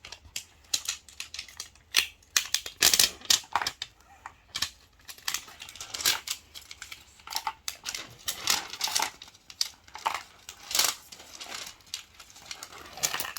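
Toy packaging being opened by hand: irregular crinkling, tearing and clicking of the box and its wrapping.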